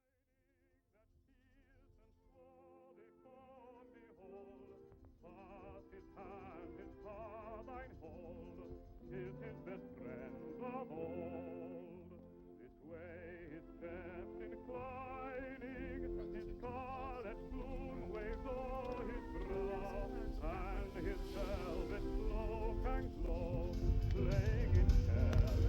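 Opera music with a singer using strong vibrato, fading in from silence and growing steadily louder.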